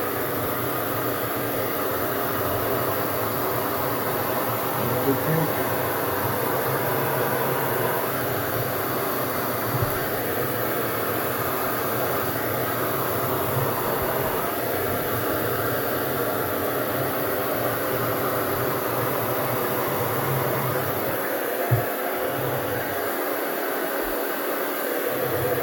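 Handheld hair dryer running steadily, blowing wet paint across a canvas, with a few faint knocks.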